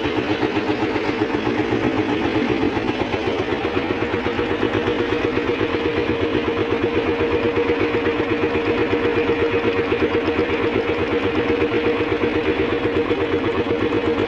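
Inboard engine of a pompong, a small wooden motorboat, running steadily under way with a fast, even chugging beat.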